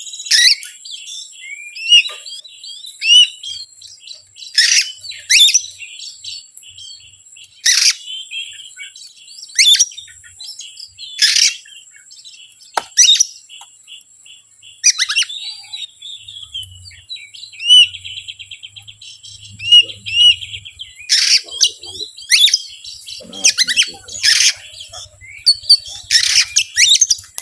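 Oriental magpie-robin (kacer) singing: loud harsh notes every second or two mixed with varied whistled glides, and a rapid trill about two-thirds of the way through.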